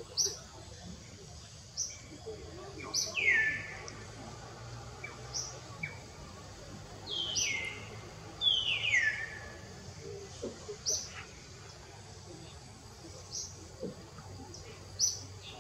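Birds calling: a short high chirp repeats every second or two, and three longer calls slide downward in pitch, one about three seconds in and two near the middle.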